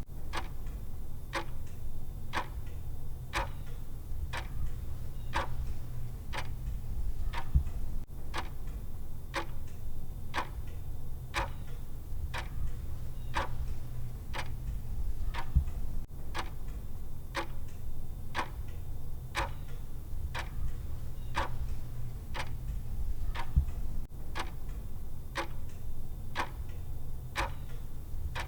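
Steady clock-like ticking of a countdown timer's tick sound, about two ticks a second, over a low steady hum.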